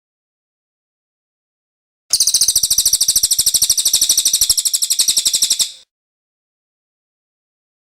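A cililin songbird giving one fast, high-pitched rattling trill of about a dozen notes a second. It starts about two seconds in and lasts about three and a half seconds.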